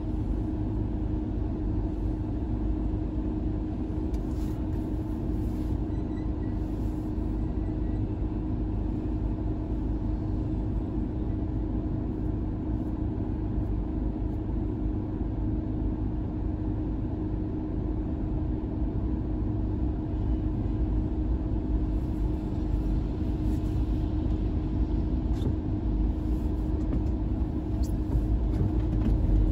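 Car running in slow traffic: a steady low rumble with a constant hum, growing a little louder near the end.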